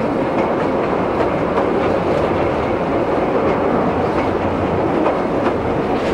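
Narrow-gauge railway carriage running along the line: a steady rumble of wheels on rails, with irregular clicks as the wheels pass over rail joints.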